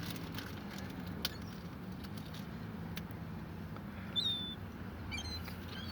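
A low, steady hum with a short, high, falling gull call about four seconds in, followed by a few faint high chirps.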